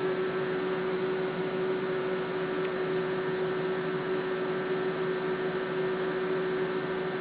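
A steady hum with one constant tone over an even hiss, unchanging.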